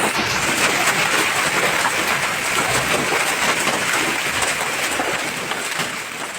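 Heavy rain falling steadily on hard surfaces, a dense hiss made of many small impacts.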